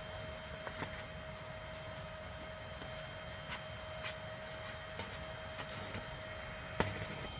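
Steady workshop hum with a constant faint whine, broken by a few scattered light metallic clicks and a sharper tap near the end.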